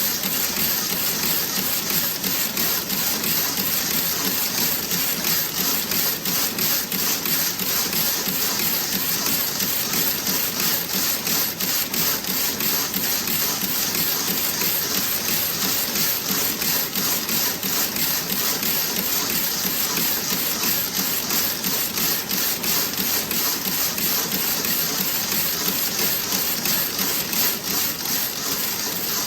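Toe-sock knitting machine running: a steady, fast mechanical clatter of rapid clicks over a constant hiss.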